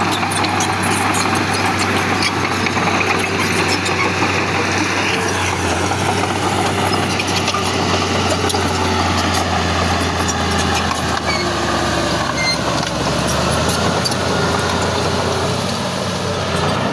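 Heavy diesel engine of earthmoving machinery running steadily, with a deep hum and a scattered light rattle of metal clicks. The hum grows stronger in the middle and eases off near the end.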